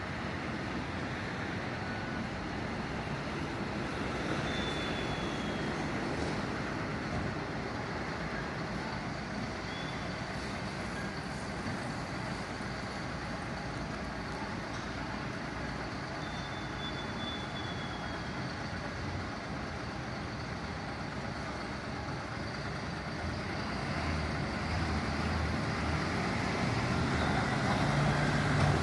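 Steady street and vehicle noise, with a heavy vehicle's engine rumble growing louder over the last few seconds.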